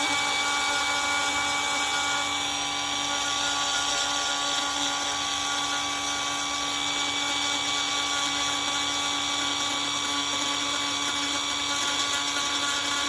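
Small high-speed rotary grinder running at a steady pitch, grinding and tapering damaged fiberglass on the hull.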